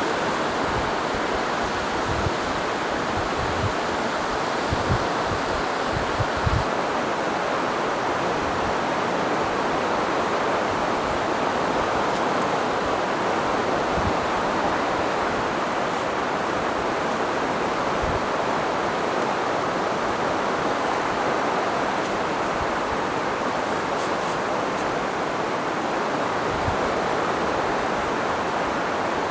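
Steady noise of high surf breaking on the beach together with strong wind. During the first six or seven seconds low thumps of wind buffet the microphone.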